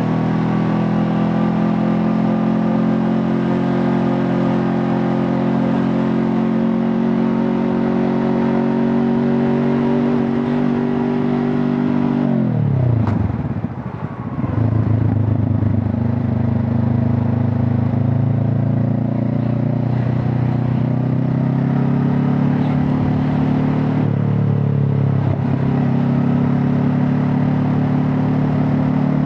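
Honda CB500 Hornet's parallel-twin engine and exhaust, running steadily under way. About 13 s in the revs fall sharply, with a brief lull, and it settles into a steady lower note; there is another short change in engine note near 25 s.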